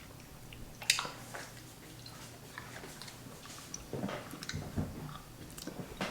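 Faint chewing and mouth noises with scattered small clicks, the sharpest about a second in.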